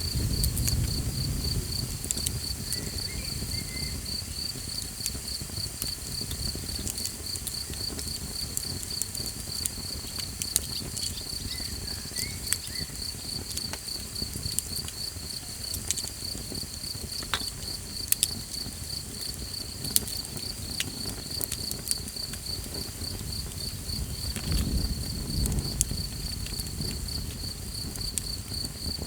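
Crickets trilling steadily in a fast, even pulse, over the sharp pops and crackles of a small campfire. A low rumble swells briefly twice, about a second in and again near the end.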